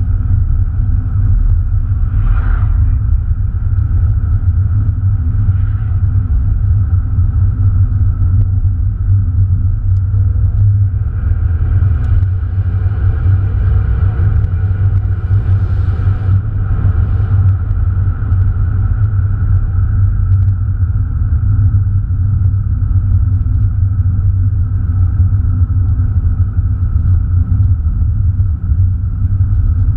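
Steady in-cabin drone of an Opel Astra Bertone Turbo's 2.0 turbocharged four-cylinder engine and tyres while cruising at an even speed. About halfway through, a rush of louder hissing noise swells for several seconds as a lorry is passed close by.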